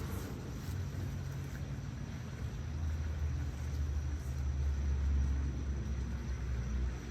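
A steady low rumble, like an engine running at a distance, that swells from about three seconds in and eases off near the end.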